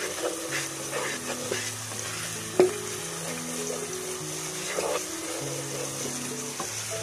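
Onion, garlic and green chilli masala sizzling in oil, frying down with a few spoons of water added, while a wooden spatula stirs and scrapes the pan. There is one sharp knock of the spatula about two and a half seconds in. Soft background music with a slow melody plays underneath.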